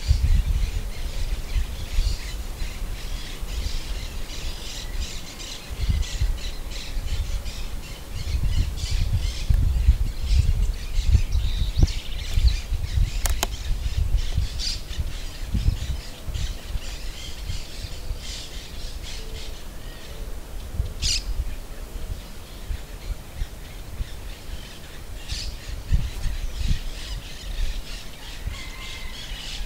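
Outdoor birds calling: many short chirps and squawks throughout, over a low rumble that comes and goes in gusts, with one sharp click about halfway through.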